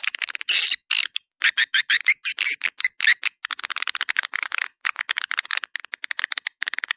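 Swiftlet call recording used to lure swiftlets: rapid runs of clicking, twittering chirps, broken by brief silent gaps.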